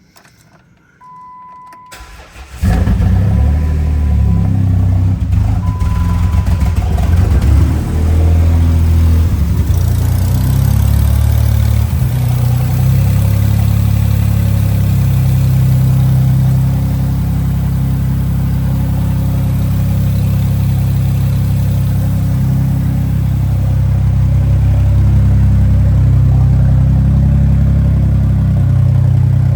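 2009 Jeep Wrangler's 3.8-litre V6 started up: it cranks briefly and catches about two and a half seconds in, runs unevenly for several seconds, then settles into a steady idle. A faint beeping tone sounds a few times around the start.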